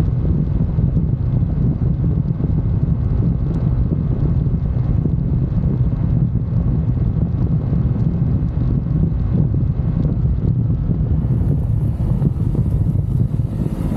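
UM Renegade Commando 125 motorcycle's 125 cc engine running steadily while riding, with wind buffeting the handlebar-mounted microphone.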